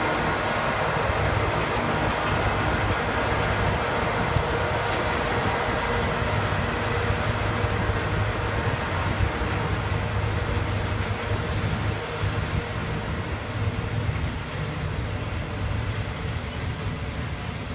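A train running past on the railway line, a steady rumble of wheels on rails that eases a little toward the end.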